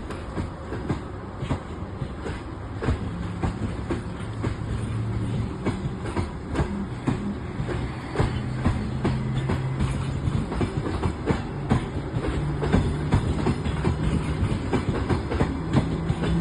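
Train running past on the track, its wheels clicking rapidly over rail joints, with a low hum that shifts in pitch now and then. The sound grows a little louder toward the end.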